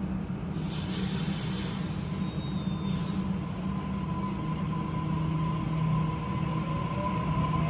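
Sydney Trains electric suburban train at the platform: a steady low hum, two short bursts of air hiss early on, and a whine that rises in pitch near the end.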